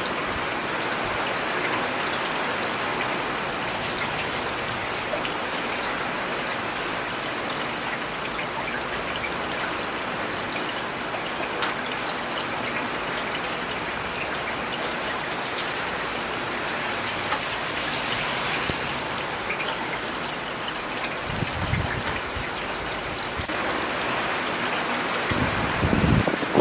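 Steady rain falling on city surfaces, an even hiss with scattered drop ticks. Two short low rumbles come through, one about 21 seconds in and one near the end.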